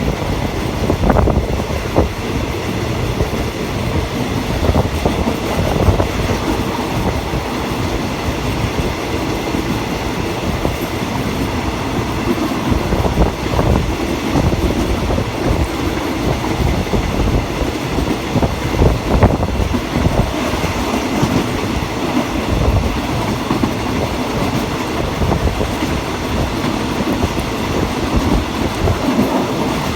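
Passenger train running along the track, heard from aboard: a steady rumble of wheels on rail with occasional clacks over the rail joints.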